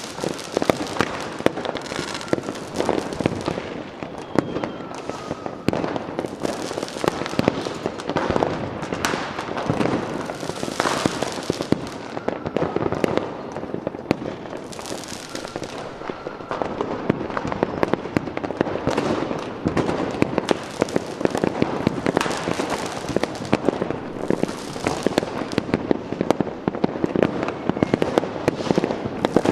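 Fireworks going off continuously: a dense, rapid crackle of many small bangs and pops, with louder bursts every few seconds.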